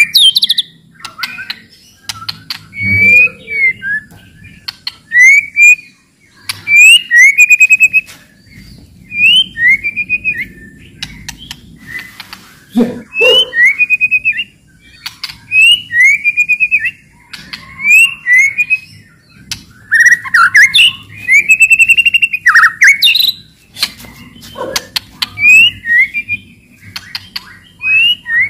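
White-rumped shama (murai batu) singing loudly in quick, repeated phrases: slurred whistled notes mixed with fast high trills and sharp clicking chatter, a new phrase about every second.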